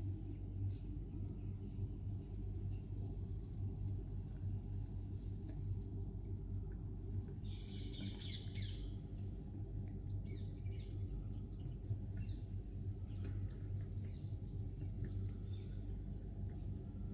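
Sparrows chirping in many short, overlapping calls, with a denser flurry of chirps about halfway through, over a steady low hum.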